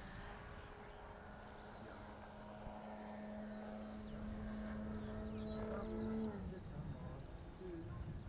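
Electric model airplane's motor and propeller humming in flight, growing louder as it approaches, then dropping in pitch about six seconds in as it passes by.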